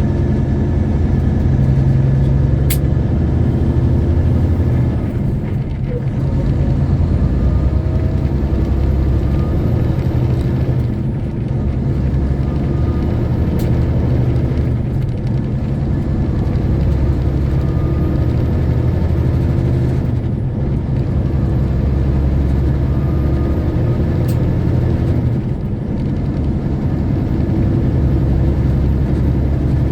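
A semi truck's diesel engine is pulling under load. The drone dips briefly every five to nine seconds as the driver shifts the manual transmission up a gear, and the revs build again after each shift.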